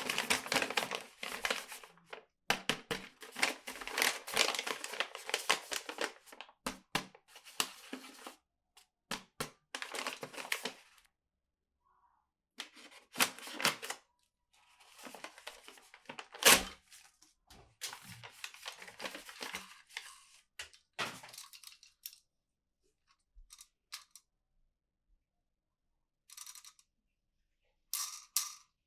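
Toy packaging being handled and torn open: irregular bursts of tearing and crinkling, dense at first and then sparser, with a sharp click about halfway through and a few light taps and clicks near the end.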